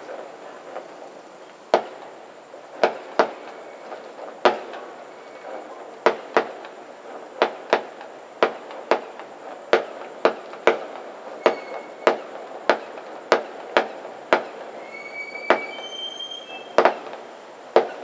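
A long barrage of fireworks going off: a string of sharp bangs, about one or two a second and unevenly spaced, with a few short whistles about three-quarters of the way through.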